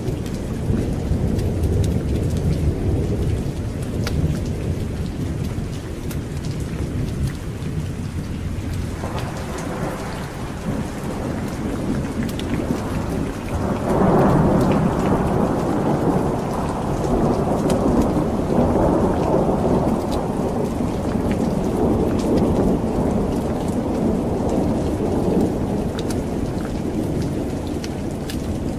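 Heavy rain falling steadily with thunder rumbling low. Partway through a loud roll of thunder breaks in suddenly and rumbles on for about twelve seconds before easing back.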